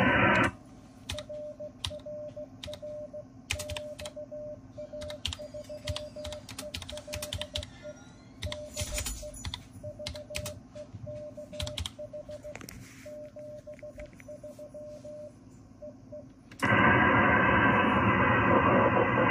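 A steady mid-pitched tone from an amateur radio receiver keying on and off in a long run of dashes, with scattered sharp clicks like keyboard or mouse clicks. Loud receiver hiss, cut off above the voice band, fills the first half second and comes back suddenly near the end.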